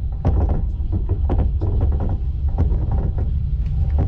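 Passenger train running on the rails: a steady low rumble from the wheels and running gear, with irregular clacks and knocks as the wheels pass over track joints and points.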